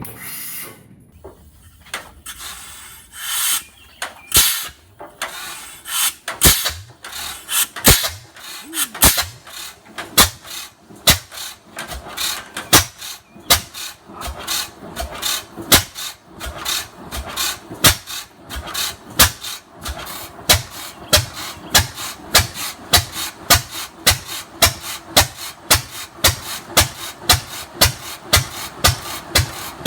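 Large old Fairbanks Morse engine starting cold. It gives a few scattered knocks at first, then firing beats that come faster and more evenly as it picks up, settling at about two a second.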